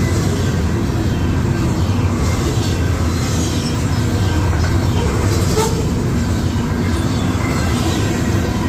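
Double-stack intermodal freight cars of a Union Pacific train rolling past the crossing: a loud, steady rumble of steel wheels on the rails, with one brief sharper clank about five and a half seconds in.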